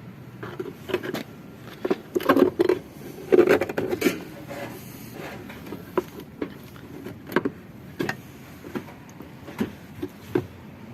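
Hand tools and metal parts being handled while a washing machine is taken apart: a burst of clattering and clunking, then a dozen or so separate sharp knocks and clicks.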